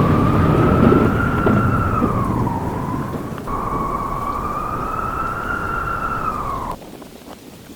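Wolf howling: two long, wavering howls, the second rising and then falling, over a low rumble of storm wind. The sound cuts off abruptly near the end.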